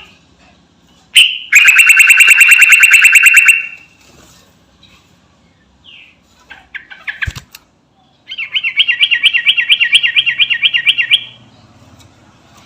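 Sooty-headed bulbul (trucukan) singing: two long runs of rapid, evenly repeated notes, each lasting two to three seconds, with a few short scattered notes and a sharp click between them.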